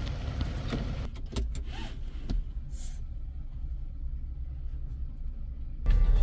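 Low steady rumble of a car, with a few clicks and knocks in the first couple of seconds; the noise grows louder near the end.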